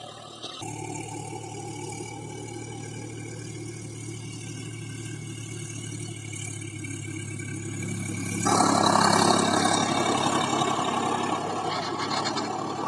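Swaraj tractor's diesel engine running steadily, setting in abruptly just after the start. About eight seconds in it turns suddenly louder and harsher, then eases off slowly.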